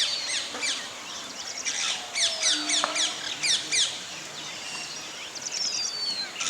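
Birds chirping: bouts of quick, sharply falling notes, several a second, with a few longer falling whistles among them.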